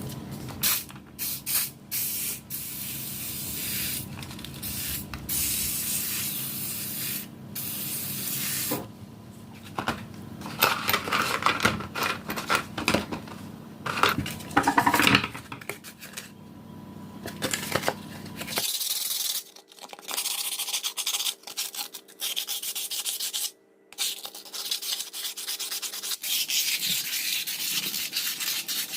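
Rough rubbing and scraping strokes, like sanding, made while working on a can-seaming key during its repair, with short breaks between passes. A low hum underneath stops suddenly partway through.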